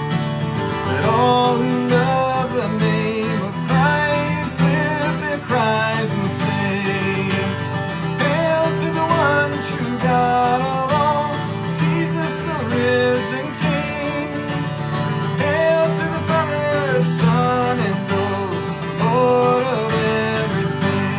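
Acoustic guitar strumming chords under a voice singing a slow, hymn-like melody.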